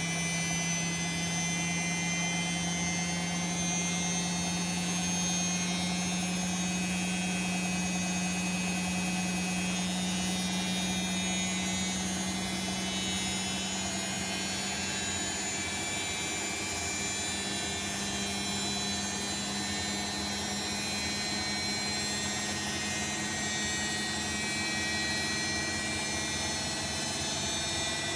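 Bosch WAE24162GB03 washing machine spinning its drum, a steady motor whine and hum whose pitch rises slowly as the drum gathers speed.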